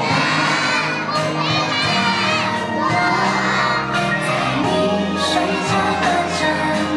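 Children shouting and singing along over music, with a crowd cheering.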